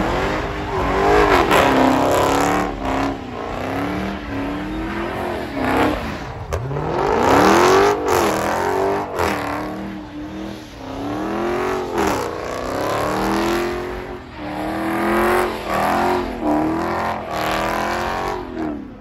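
LS-swapped V8 engine of a box Chevy being revved again and again, its pitch climbing and falling back in repeated sweeps.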